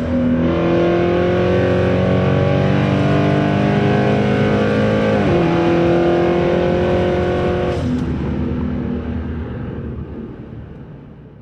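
Car engine running at high revs, its pitch dropping quickly about five seconds in, then fading away.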